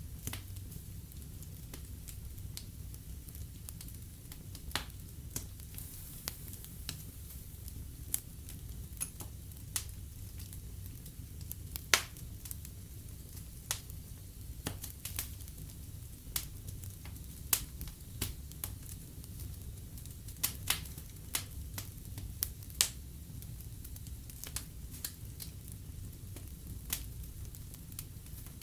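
Fire burning in a fireplace: irregular sharp crackles and pops over a steady low rumble of the flames, with one louder pop about halfway through.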